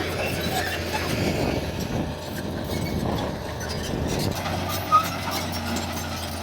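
Heavy diesel earthmoving machinery running steadily, with a low engine hum under a rough mechanical rumble. A brief sharp sound cuts in about five seconds in.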